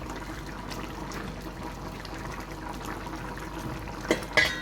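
A pot of curry chicken feet simmering, with a steady bubbling hiss. Near the end come two sharp knocks, the second ringing like metal.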